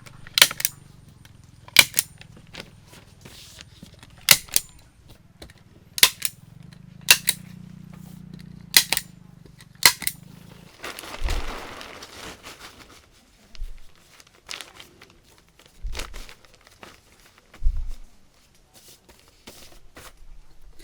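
Seven sharp knocks at fairly even intervals, one every second and a half or so, over a low steady hum. About ten seconds in, the knocks give way to a rustle and a few dull thumps.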